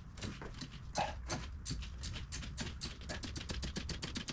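Ratchet wrench clicking in quick runs, several clicks a second, as a spark plug is worked loose.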